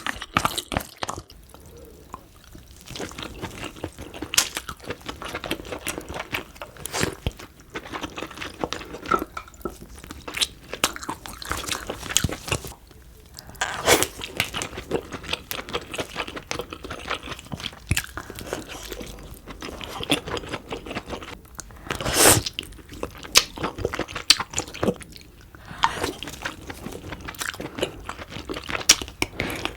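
Close-miked eating sounds: a person chewing and crunching seafood, with many small crackles and two louder, sharp cracks, the first about halfway through and the second a few seconds later.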